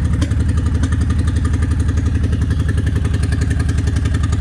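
Honda Shadow 750 ACE Deluxe V-twin engine running steadily at idle on only one cylinder: the front cylinder is not firing, which the owner blames on a partially clogged carburetor.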